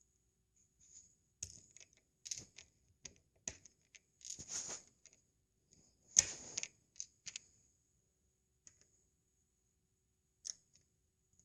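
Plastic LEGO bricks being handled and pressed together: a scattered series of small sharp clicks and two short rattling rustles, the loudest about six seconds in.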